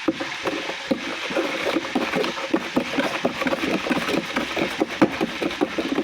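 Sugar water for Kool-Aid being stirred, sloshing and knocking in quick, uneven strokes several times a second to dissolve the sugar, over the steady sizzle of oil heating.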